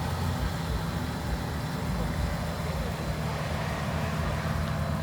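A car engine running steadily, with no revving.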